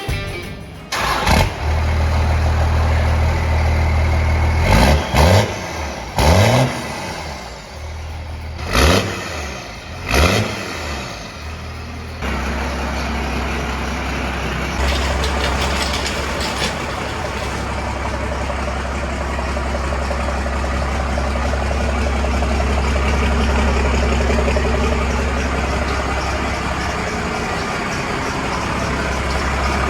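Cummins diesel engine of a 1969 Dodge D200 crew cab, running through its new custom-made exhaust: blipped up four times in quick revs, then settling into a steady idle.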